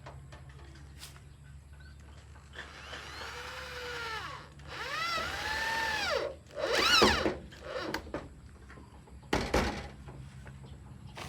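Electric power tool motor spun up and let wind down three times, its whine rising and falling in pitch each time, the third burst short and loudest. A sharp knock follows near the end.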